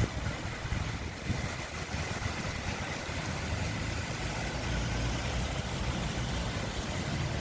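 Strong dust-storm wind on the microphone: a steady rushing with an uneven low rumble that rises and falls in gusts.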